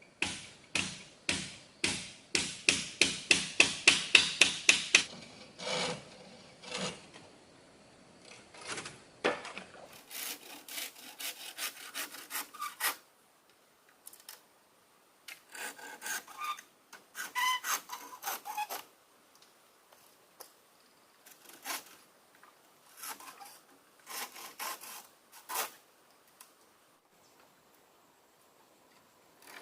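Wood being sawn by hand, in runs of quick back-and-forth strokes that are fastest and loudest over the first five seconds, then come in shorter, sparser bursts.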